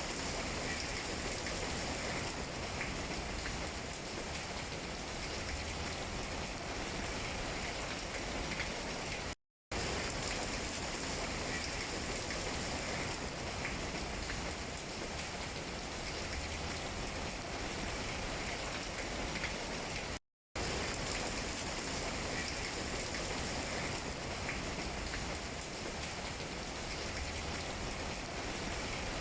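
Steady rain falling on tree leaves, an even dense hiss of drops. It cuts out to silence for a split second twice, about ten and twenty seconds in.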